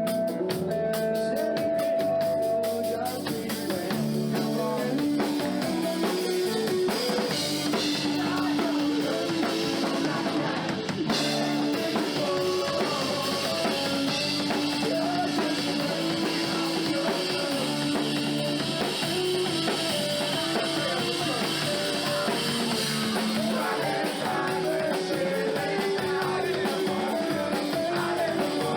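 Live rock band playing a song: drum kit, guitar and singing.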